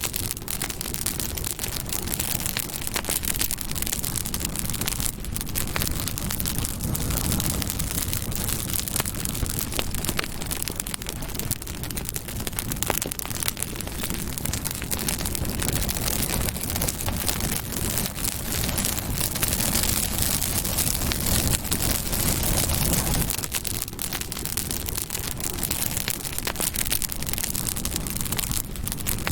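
Campfire burning with a steady crackle and many small pops over a low rumble of flame.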